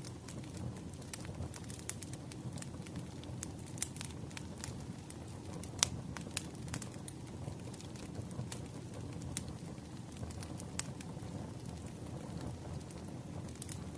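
Wood fire crackling: a steady low rumble of burning logs with irregular sharp pops and snaps, a few louder pops near the middle.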